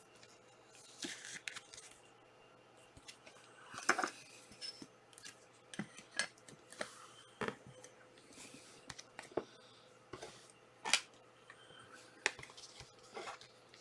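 Soccer trading cards and their packs being handled: irregular, faint clicks and rustles as cards are slid and flipped, with a sharper click about 4 s in and again about 11 s in.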